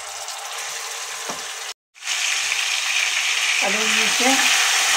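Ginger-garlic paste sizzling in hot oil in a non-stick kadhai while a wooden spatula stirs it. After a brief dropout about two seconds in, the sizzle comes back louder.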